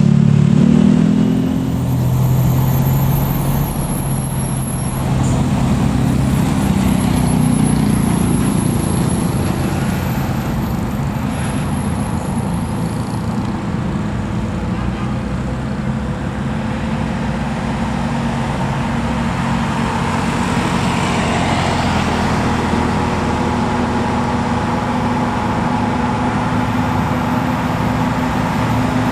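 Diesel truck engines labouring up a steep hill in a steady, heavy drone, the pitch shifting a few times as they pull.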